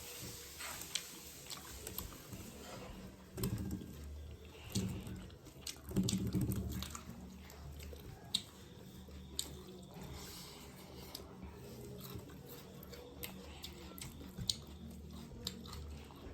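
Close-up eating sounds: chewing and small wet mouth clicks and smacks from a mouthful of rice and mutton curry. There are a few heavier soft thumps between about three and seven seconds in.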